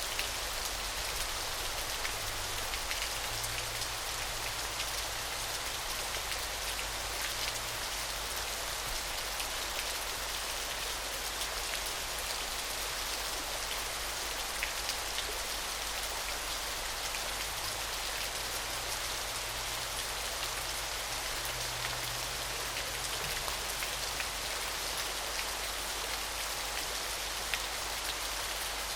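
Small waterfall splashing steadily: an even, shimmering hiss of falling water with fine drip-like ticks.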